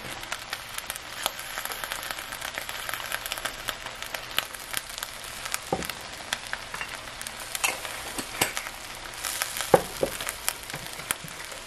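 Fried rice with broccoli and veggie-meat crumbles sizzling in a nonstick skillet: a steady crackling hiss with scattered small pops, and two louder clicks about six and ten seconds in.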